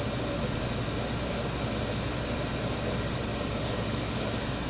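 Window air conditioner running: the steady hum of its Toshiba rotary compressor under the even rush of the fan blowing air.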